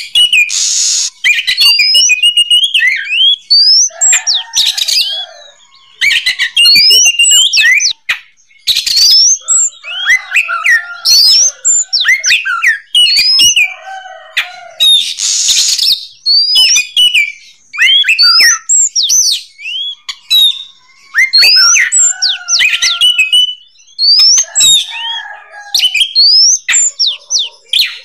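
Oriental magpie-robin (kacer) singing at full voice: a rapid, varied run of whistled notes sliding up and down, in phrases a second or two long. Several short harsh, rasping bursts are mixed in.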